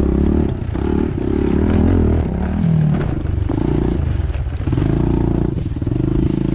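Pit bike engine running under riding load, its pitch and loudness swelling and dipping several times as the throttle is opened and eased off.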